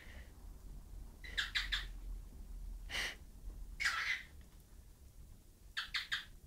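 Pet bird giving short, sharp chirps: a quick run of three, two single calls, then another run of three near the end.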